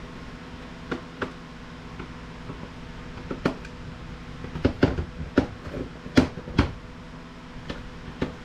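Tools and a plastic electronics casing clicking and knocking irregularly as a video docking station is pried apart for scrap, busiest in a run of sharp knocks about halfway through, over a steady low hum.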